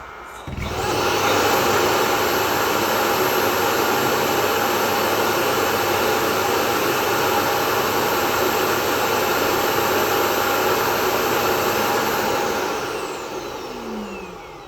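SwitchBot K10+ robot vacuum's self-emptying dock running its suction motor to pull the dust out of the robot's bin: a very loud, steady rush that switches on about half a second in and winds down with a falling whine near the end.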